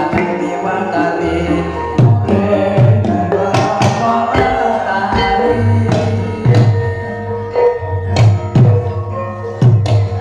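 Javanese jathilan dance music: gamelan-style ensemble with held melodic tones and hand drums struck repeatedly, each low drum stroke dropping in pitch.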